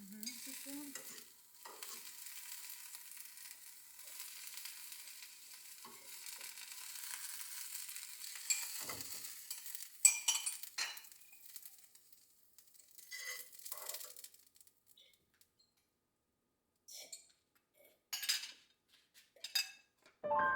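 Food sizzling in a hot pan with a utensil stirring and scraping, and a few sharp clinks about ten seconds in. The sizzle stops about twelve seconds in, leaving scattered clinks of utensils and dishes.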